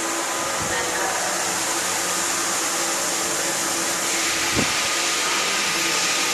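CNC vertical machining centre running a job: a steady hiss with faint steady whining tones, and a single short knock about four and a half seconds in.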